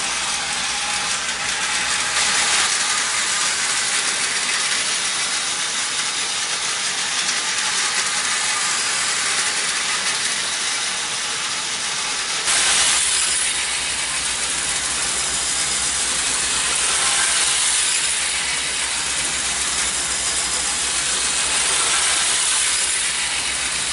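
A 1910 Lionel No. 1910 Standard gauge toy electric locomotive running steadily around a circle of early split-pin track, its motor and gears whirring and its wheels rattling on the tinplate rails. Its AC motor is fed DC through a rectifier. About halfway through the sound turns suddenly brighter and hissier, with a low hum underneath.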